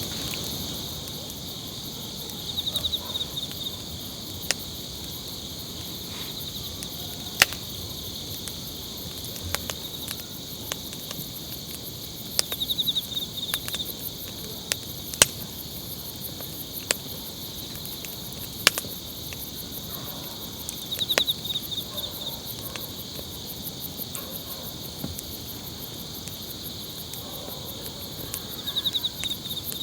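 A chorus of insects, crickets and the like, chirping steadily at several high pitches, with a louder pulsed chirp coming back about every eight seconds. A few sharp clicks stand out here and there.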